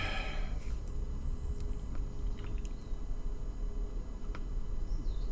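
A few faint, scattered light clicks of small plastic model-kit parts being handled and fitted, over a low steady hum.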